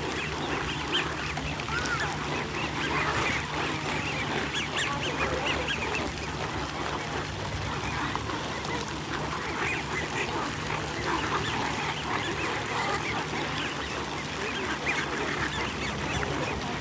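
A flock of ducks or geese calling together, many short overlapping calls forming a continuous chorus, over a low steady hum.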